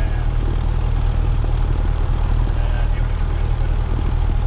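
Cessna 172R's four-cylinder Lycoming piston engine and propeller running steadily at low power, heard from inside the cockpit as an even, deep drone.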